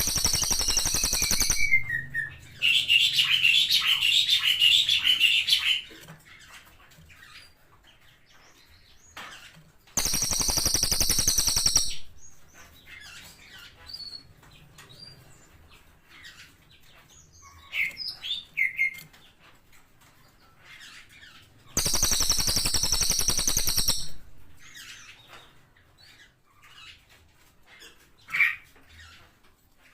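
A cililin songbird singing: loud, harsh, high buzzing trills about every ten seconds, one right at the start, one about 10 s in and one about 22 s in. A fast warbling trill comes about 3 to 6 s in, with soft scattered chirps in between.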